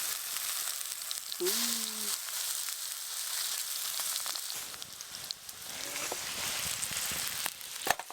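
Hamburger patties sizzling steadily in hot olive oil in an iron frying pan, just after being laid in. A couple of sharp clicks near the end.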